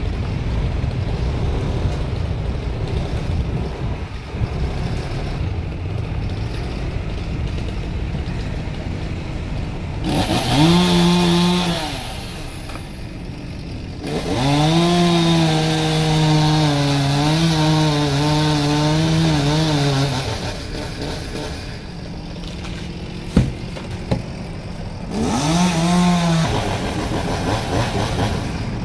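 Two-stroke chainsaw running low, then revved up three times: briefly about ten seconds in, for about six seconds from about fourteen seconds with its pitch wavering, and briefly again near the end. A sharp knock sounds once between the later runs.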